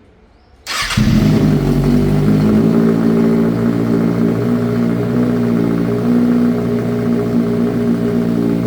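Kawasaki ZX-6R inline-four engine running through an IX Race aftermarket short-can exhaust on a de-catted link pipe, loud and steady. The sound cuts in abruptly under a second in, and its pitch steps up slightly a couple of seconds later.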